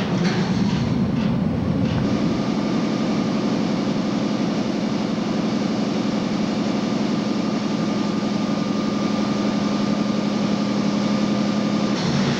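New York City subway work train of converted R22 and R30 cars running through a station with a steady low hum and a faint higher tone. A high hiss fades out over the first couple of seconds.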